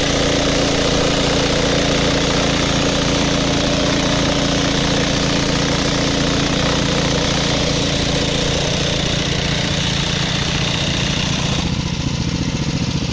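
Small walk-behind tractor engine running steadily. Near the end the sound changes abruptly to a lower, plainly pulsing engine beat.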